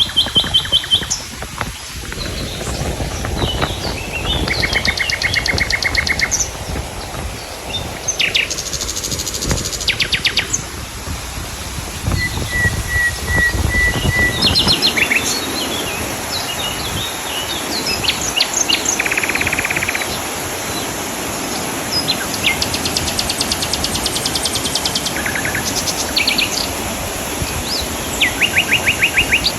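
Wild birds singing and calling, with many quick repeated trills and chirps, over a steady rushing background noise.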